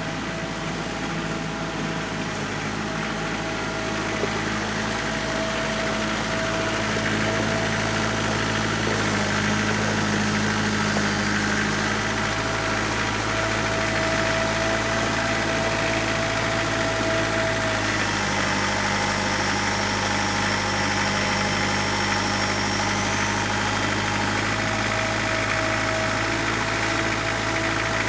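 An engine running steadily at an even speed, its tone shifting slightly a couple of times, with a faint high whine for a few seconds in the middle.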